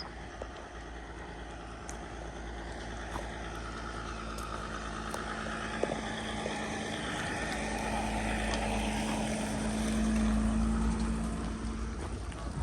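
An engine passing by: a steady low hum that grows louder over several seconds, peaks about ten seconds in, then fades near the end.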